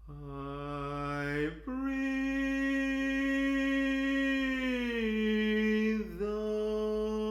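A cappella voice singing long held wordless notes, humming or a vocalise: a low note, a step up about a second and a half in, a slight slide down near five seconds, and a brief break just after six seconds before the note is held again.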